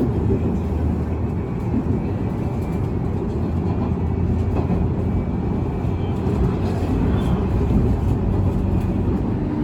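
Steady running noise of an electric commuter train in motion, heard from inside the passenger car: an even low rumble of wheels on the rails with no distinct knocks or changes.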